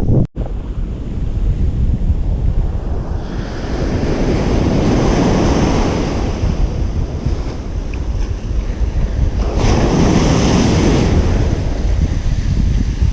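Ocean surf washing onto a beach, swelling as waves break about 4 and 10 seconds in, with wind rumbling on the microphone throughout. There is a very brief dropout in the sound just after the start.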